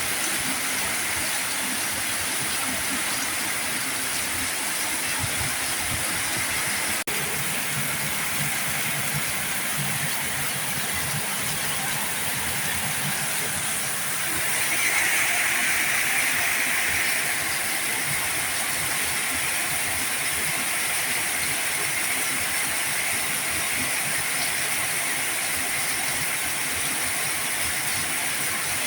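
Heavy rain falling steadily, an even hiss of drops that grows briefly louder about halfway through.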